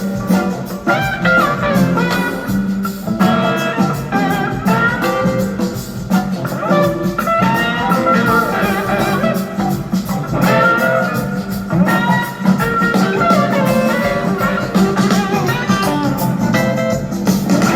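Live blues-rock band playing an instrumental passage: a lead electric guitar solo with gliding, bending notes over the full band.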